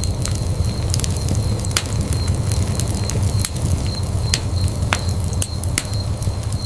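Wood fire crackling in a fireplace: a steady low rumble of flames with irregular sharp pops and snaps, about a dozen in a few seconds.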